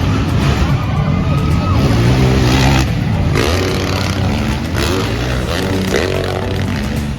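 Motocross bike engines revving, the pitch rising and falling several times as the throttle opens and closes.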